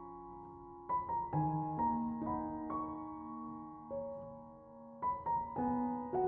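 Soft background piano music: sustained notes struck in short groups about a second in and again about five seconds in, ringing on between them.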